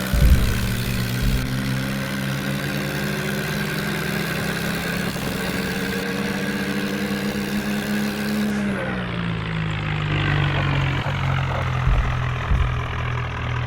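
Mahindra tractor's diesel engine running, its pitch creeping up slowly and then dropping about two-thirds of the way through, with a few low thumps near the start and near the end.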